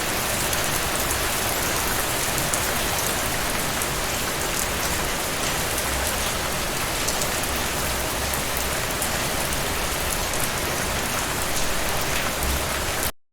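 Steady rain falling on a surface, an even hiss with scattered drops ticking through it; it cuts off suddenly near the end.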